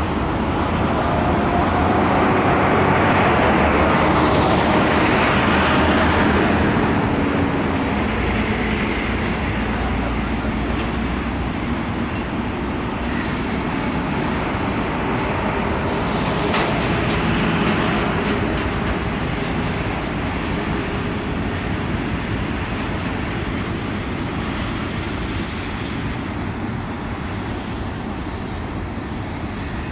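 Double-stack intermodal freight cars rolling past in a steady rumble of steel wheels on rail. The sound is loudest a few seconds in and eases slowly toward the end.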